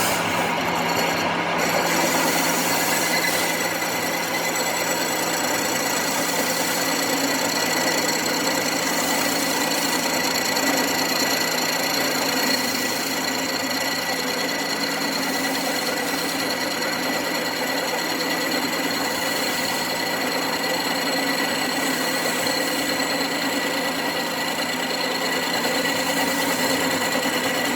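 A workshop machine tool running steadily under load, a dense mechanical noise with a constant whine.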